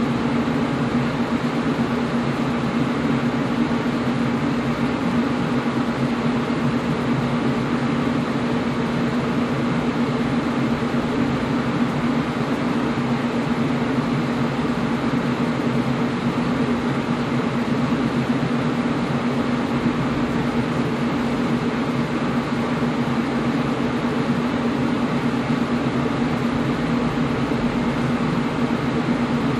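Air conditioner running steadily: an even rush of fan noise with a constant low hum.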